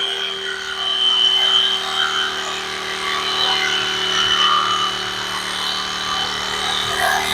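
Electric carving knife running with a steady hum, its reciprocating serrated blades sawing through high-density upholstery foam.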